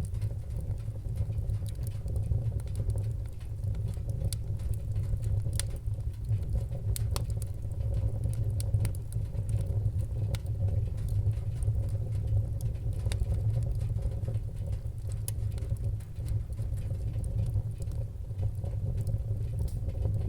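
Wood-burning fire crackling: a steady low rumble of flame with scattered, irregular sharp snaps and pops from the burning logs.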